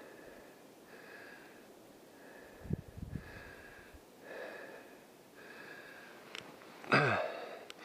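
A person breathing in short puffs close to the microphone, about once a second, with a few low thumps midway and a sharp loud sound near the end.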